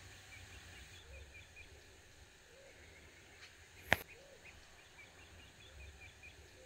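Faint lakeshore ambience: small birds chirping over a low rumble, with one sharp click about four seconds in.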